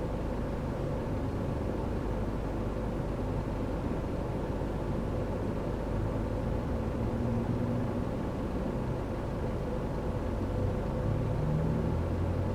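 Car interior noise while driving: a steady low rumble of tyres and engine. Near the end the engine note starts to rise and grow louder as the car accelerates.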